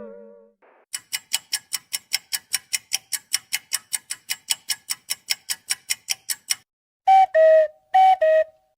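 Ticking clock sound effect, a steady run of sharp ticks about five a second, followed near the end by a two-note falling chime played twice.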